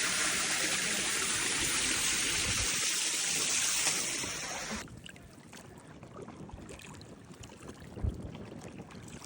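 Steady hiss of rushing water for about five seconds, cutting off abruptly. It is followed by quieter water and paddling sounds, with a single knock near the end.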